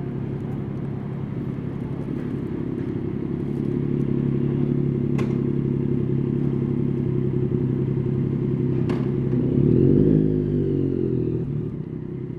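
Yamaha Tracer 9's 890 cc inline-three engine running steadily, with a brief rise and fall in pitch about ten seconds in. Two sharp clicks are heard, at about five and nine seconds.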